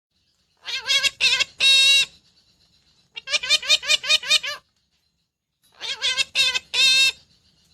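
Rose-ringed (Indian ringneck) parakeet calling: three bursts of rapid repeated notes, each about a second and a half long, with short pauses between them.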